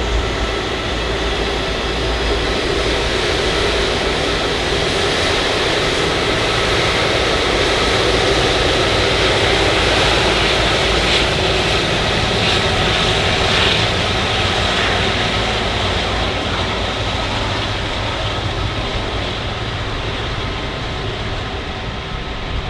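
Jet engine noise of an Airbus A330-300 airliner with Rolls-Royce Trent 700 engines: a steady rush that swells to its loudest about halfway through, then slowly fades.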